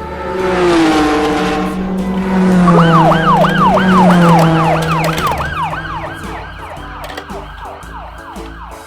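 Electronic toy siren, from a battery-powered toy vehicle, sounding in fast repeated up-and-down swoops from about three seconds in and fading toward the end. Before it, a long pitched tone that slowly falls.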